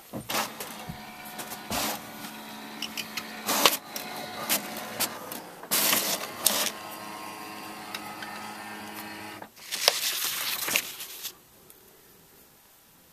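A small machine whirring steadily, with frequent clicks and louder rattling bursts, stopping abruptly about eleven seconds in.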